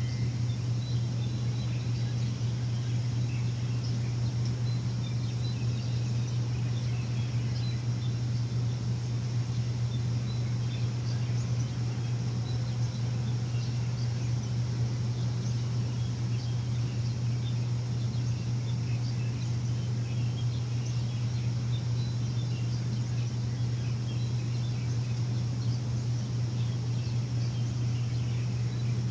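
A machine running with a steady low drone, with faint scattered bird chirps over it.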